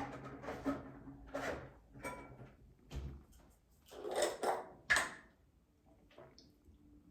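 Scattered short knocks and rustles of things being handled, loudest about four to five seconds in.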